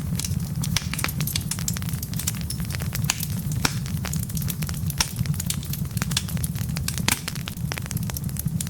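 Wood fire burning in a fireplace: a steady low rumble of the flames with dense, irregular crackles and a few louder pops from the logs.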